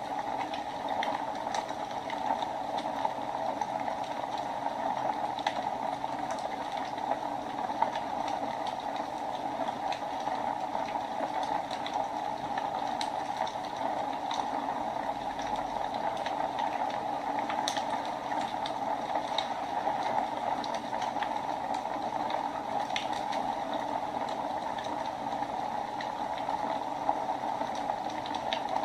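Wood fire burning in a fireplace: a steady hiss with scattered small crackles and pops throughout.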